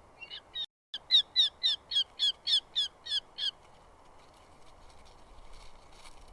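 Eurasian hobby giving a rapid run of about a dozen sharp, repeated calls, about four a second, for some three seconds. The sound cuts out for a moment near the start of the run.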